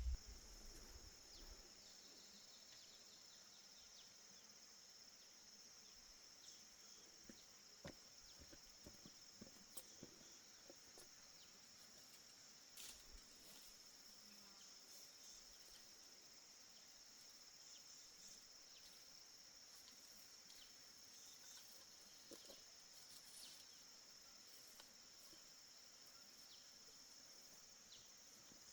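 Faint, steady high-pitched chorus of crickets, with a few soft scattered clicks and taps.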